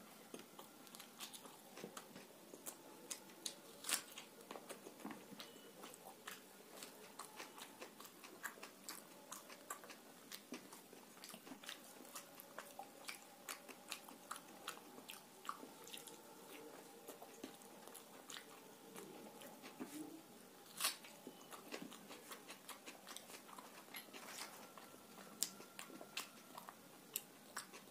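Close-up mouth sounds of a man eating luchi dipped in curry: faint chewing with many small wet clicks and smacks, a couple of them louder, about four seconds in and again about twenty-one seconds in.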